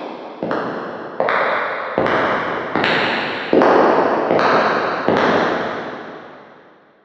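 Footsteps at an even walking pace, about one step every three-quarters of a second, each step trailing a long echo. The steps grow louder toward the middle, then stop, and the last echo fades away.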